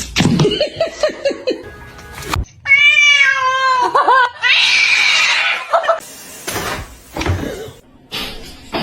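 Cat meowing, with background music; the sound cuts off and changes abruptly a few times.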